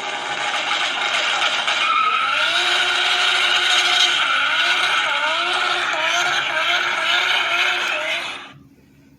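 Car sound effect: an engine racing with its pitch rising and falling again and again over a loud rushing noise. It cuts off about eight and a half seconds in.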